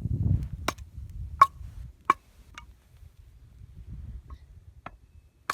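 Freshly lit campfire crackling: single sharp pops of burning wood every half second to a second or so, with a low rumble over the first second and a half.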